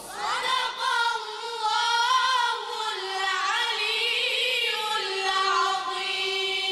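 A high voice singing a melody, moving up and down in pitch, then holding one long steady note near the end.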